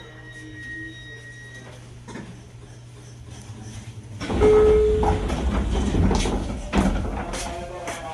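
JR Kyushu 817 series electric train at a stop with a steady low hum. A faint inverter whine dies away in the first couple of seconds. About four seconds in, the sliding doors open with a loud rush of air, a short tone and a few clunks.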